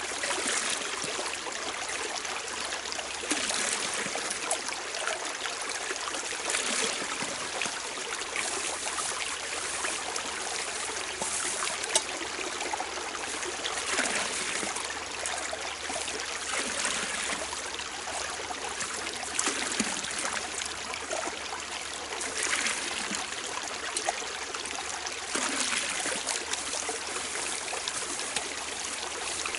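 A strong spring-fed brook running hard: a steady rush of water with brief louder splashes every few seconds.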